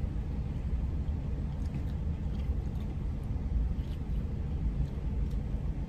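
Steady low rumble of a car idling, heard from inside the cabin, with a few faint small ticks.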